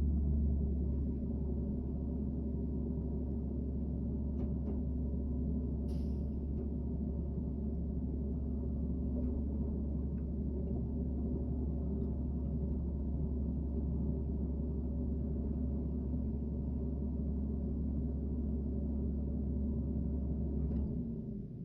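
Garbage truck running with a steady deep drone, a few faint clicks and one brief clatter about six seconds in; the drone fades away just before the end.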